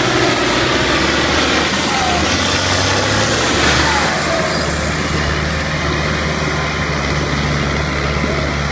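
A vehicle engine running steadily under a loud rushing noise; its low hum shifts slightly about three and a half seconds in.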